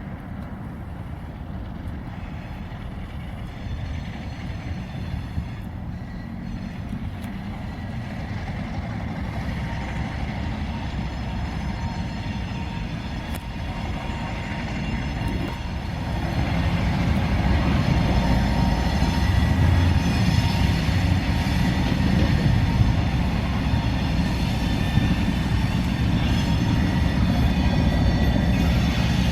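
Freight train on the move, a switcher locomotive and railcars making a steady low rumble that grows clearly louder about halfway through as it comes closer.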